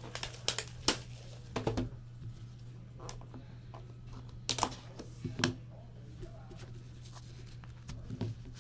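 Trading-card packs and cards being handled: scattered short clicks and rustles of card stock and wrappers, over a steady low electrical hum.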